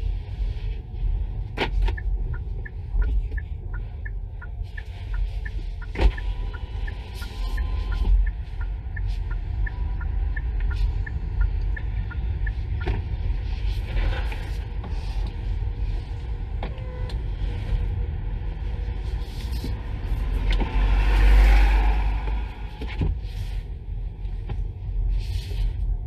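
Kia Niro EV driving slowly: a steady low road and tyre rumble. A regular ticking about twice a second runs through the first ten seconds or so. A few scattered clicks are heard, and a louder swell of noise comes about three-quarters of the way through.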